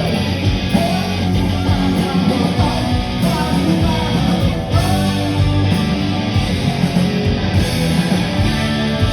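Live rock band playing loud, with distorted electric guitars, bass and drums.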